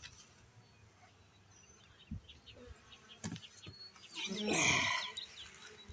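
Honeybees of a small swarm buzzing while they are handled into a hive box, a faint steady hum. A few light knocks, and a louder noisy burst about four and a half seconds in.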